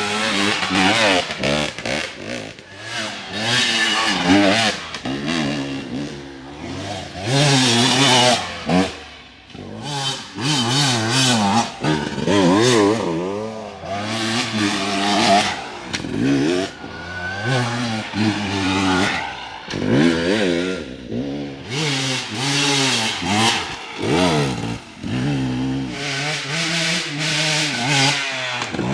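Dirt bike engine revving hard and constantly, the pitch rising and falling with quick throttle changes over rough ground. It is broken by repeated clattering and scraping noises from the bike working through the terrain.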